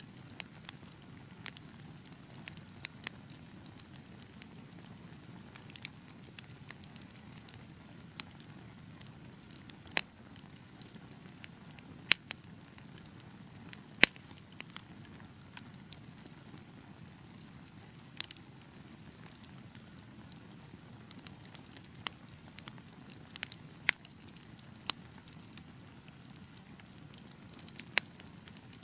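Wood fire burning in a fireplace: a steady low rush of flames with irregular sharp crackles and pops, a few much louder than the rest.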